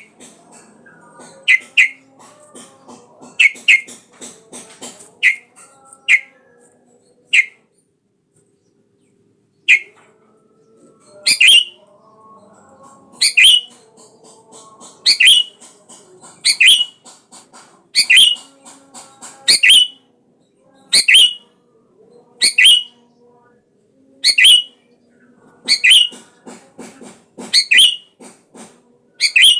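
Sooty-headed bulbul (kutilang) calling: short, sharp notes repeated about once every second and a half, with a brief pause about a third of the way in. Fainter, lower twittering runs beneath.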